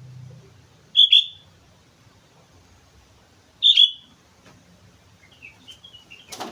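Sooty-headed bulbul calling: two loud, short double-note calls about two and a half seconds apart, then a softer run of falling notes near the end. A sharp knock sounds just at the end.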